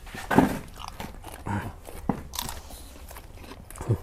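Close-up crunching bites and chewing of a crisp raw vegetable. The loudest crunch comes about half a second in, followed by several more irregular crunches.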